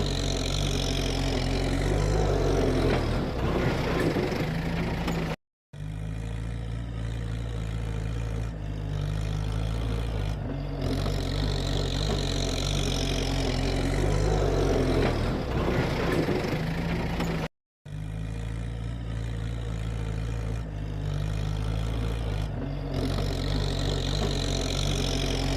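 Kubota tractor's diesel engine running steadily. The sound cuts out abruptly twice for a fraction of a second.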